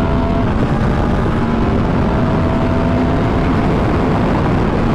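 2015 Yamaha R1 crossplane inline-four with a Yoshimura exhaust running at highway speed, its pitch creeping slowly upward under light throttle. Heavy wind rush on the rider's helmet microphone runs under it.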